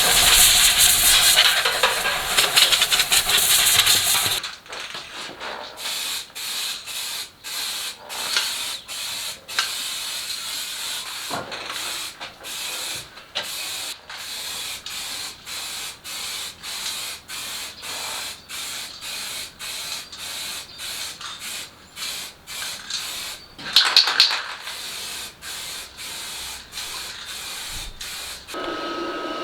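Hissing spray: one long continuous burst, then many short spurts with gaps between them, and one louder spurt near the end.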